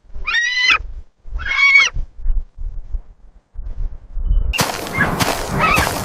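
Two short honking animal calls about a second apart, then, about four and a half seconds in, a loud harsh noise breaks out with squealing calls inside it.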